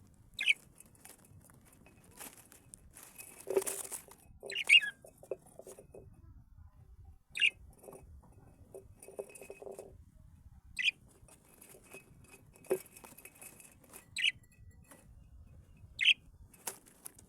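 Caged pet birds giving short, sharp single chirps every few seconds. There is a burst of wing fluttering or rustling about three and a half seconds in, and scratchy rattling in between.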